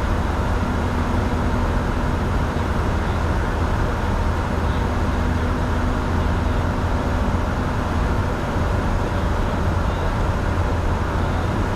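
Steady cockpit noise of a Bombardier Challenger 605 business jet: an even rush of airflow over a low drone from its engines, unbroken throughout.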